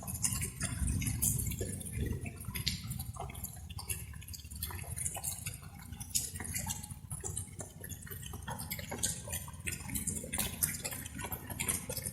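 Light rain with water drops dripping irregularly, many sharp drips over a steady low rumble.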